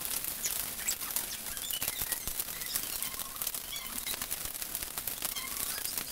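Chicken gizzards sizzling in hot vegetable oil in a frying pan: a dense, steady crackle of small pops, with short high squeaks here and there, as they are pan-fried to brown them.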